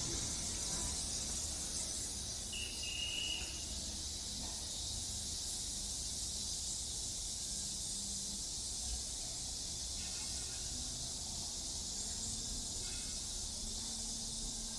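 A steady, high-pitched chorus of cicadas shrilling in the park trees.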